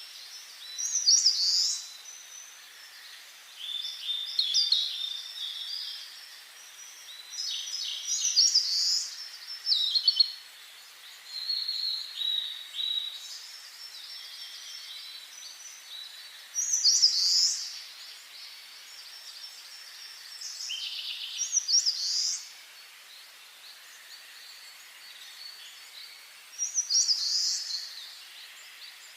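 Songbirds singing: short phrases of high chirps and quick trills, one every few seconds, over a faint steady background hiss.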